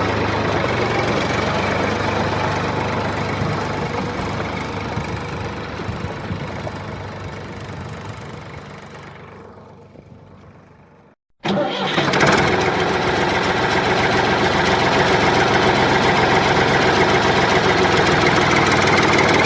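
A mini tractor's motor running steadily. It fades away over several seconds to silence about eleven seconds in, then comes back suddenly, louder, and runs on steadily.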